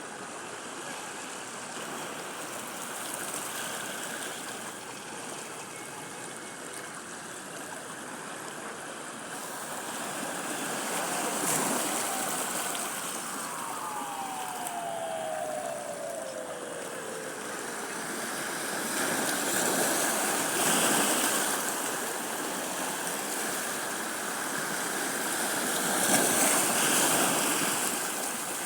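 Sea waves washing onto a beach: a steady rush of surf that swells louder three times. Around the middle, a faint tone slides slowly down in pitch.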